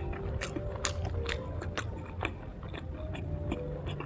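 Close-up chewing of a mouthful of bánh tét, sticky glutinous rice cake with a mung bean and pork fat filling, with the mouth closed: soft, irregular mouth clicks and smacks, a few each second.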